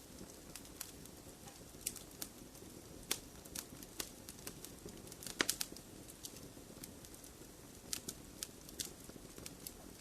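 Wood fire crackling in a fireplace: sharp, irregular pops and snaps over a low steady hiss of burning, with a quick cluster of louder pops about five and a half seconds in.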